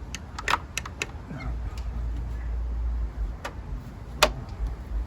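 Sharp metallic clicks and clinks, as of hand tools and small parts being handled during engine teardown: a quick run of clicks in the first second, another about three and a half seconds in, and the loudest near the end. A low rumble sits under the middle of it.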